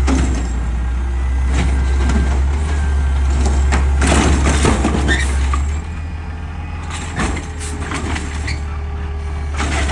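Peterbilt 520 garbage truck's diesel engine running with a steady low drone that drops in level about six seconds in, with several knocks and clatters over it.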